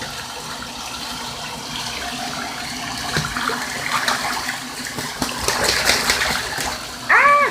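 Water pouring steadily into a filled bathtub, with a goose splashing in the water: a burst of splashes in the middle seconds.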